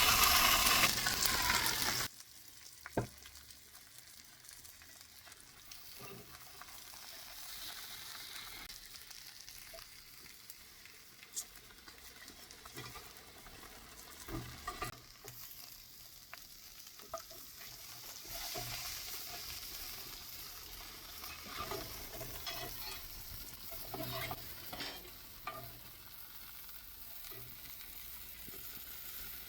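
Lamb shoulder sizzling over an open wood fire, a steady soft hiss broken by scattered sharp pops and crackles. It is preceded by a louder rushing hiss that cuts off abruptly about two seconds in.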